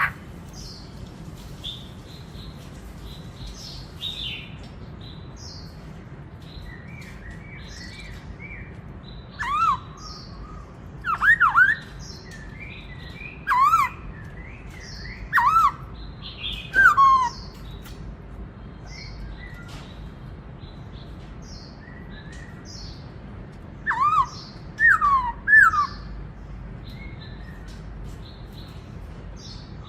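Black-throated laughingthrush singing loud, clear whistled phrases that dip and then rise in pitch: five come in quick succession, then a pause, then three more later on. Fainter, higher chirps from other birds run underneath.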